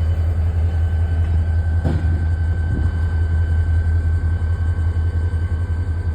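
Diesel locomotive engine running steadily: a deep, pulsing rumble with a thin steady whine above it, and a short click about two seconds in.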